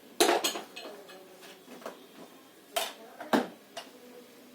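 Metal tools and parts clinking and clanking as they are handled: a quick cluster of knocks just after the start, then two more sharp clanks about three seconds in.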